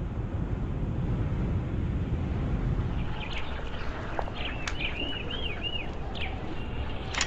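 Steady low outdoor rumble. From about three seconds in, a small bird chirps a quick run of short arched notes. A sharp clatter starts at the very end.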